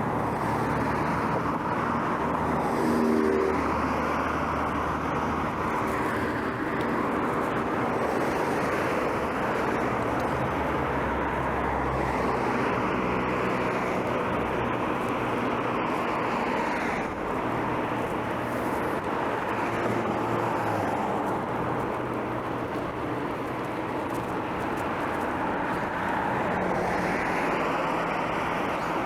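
Road traffic: cars passing, their tyre and engine noise swelling and fading several times over a continuous background roar.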